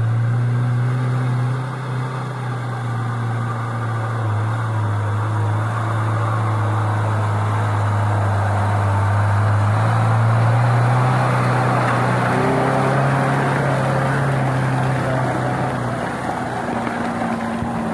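A car engine running under way with a steady hum and road noise; the pitch creeps up, then drops about twelve seconds in as it shifts or eases off.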